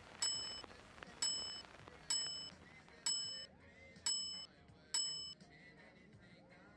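A high bell-like ding struck six times, about once a second at the same pitch, each ringing briefly and fading fast, most likely part of the edited-in music.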